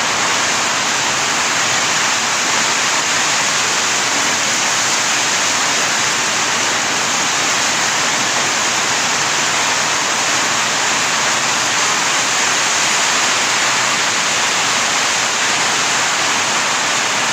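Heavy rain pouring down without a break, a loud, dense, even hiss.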